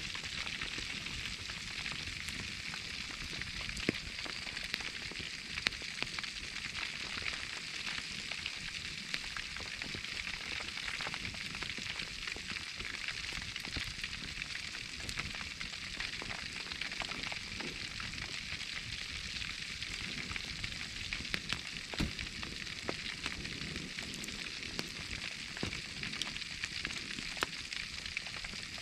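Whole pork belly wrapped in foil sizzling steadily in a wood fire, with scattered pops and crackles throughout.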